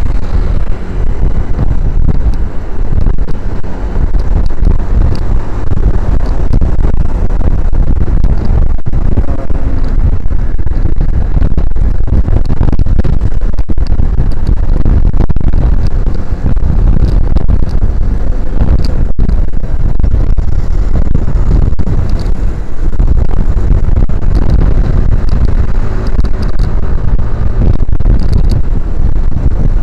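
Wind rushing over an action camera's microphone on a moving motorcycle: a loud, steady low rumble, with the motorcycle's engine and road noise underneath.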